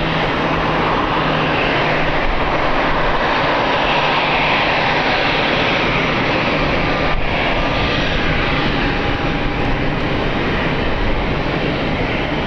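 Engines of a landing airliner running as it passes on approach to the runway: a loud, steady noise of engine sound with slowly shifting pitch.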